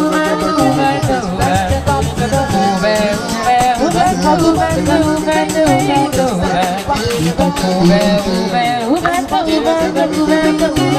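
Vocal improv group singing: several voices hold and shift pitched notes in harmony over a low bass part, with a quick, even rattling rhythm over the top.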